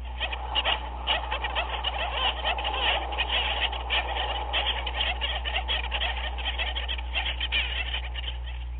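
Dense chorus of many overlapping animal calls, fast and continuous, over a steady low hum.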